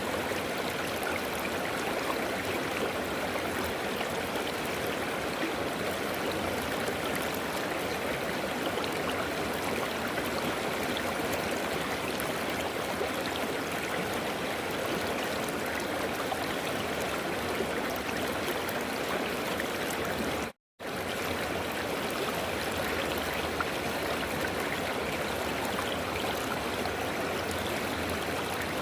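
River water flowing in a steady, continuous rush. The sound cuts out completely for a fraction of a second about two-thirds of the way through, then resumes unchanged.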